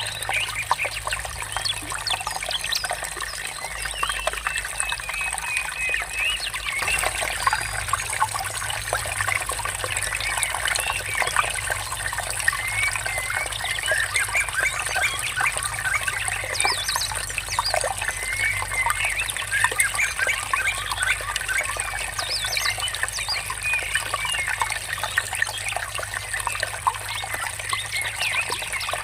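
Water trickling steadily, with birds chirping in many short, quick calls throughout.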